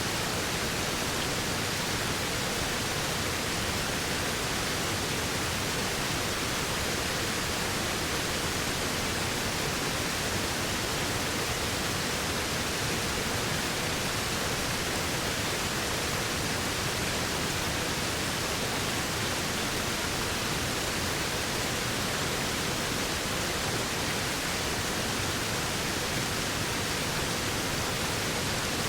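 Waterfall: falling water making a steady, unbroken rush that does not change.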